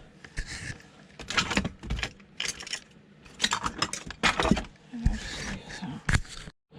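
Metal parts of an old sewing machine clinking, rattling and knocking as it is handled and taken apart, in irregular clusters of sharp clicks.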